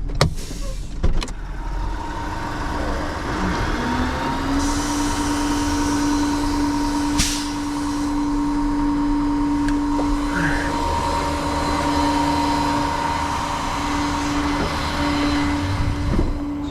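A vehicle engine running with a steady hum; its pitch rises about four seconds in and then holds steady. A few clicks near the start, and a single sharp knock about seven seconds in.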